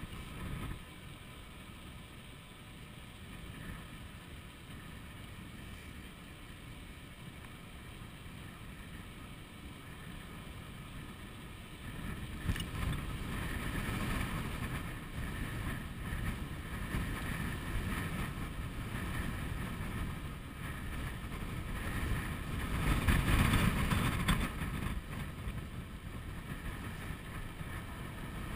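Wind buffeting the microphone of a chest-mounted camera on a moving electric bicycle, with a steady whine underneath. The wind noise grows louder about halfway through and gusts hardest about two-thirds of the way in.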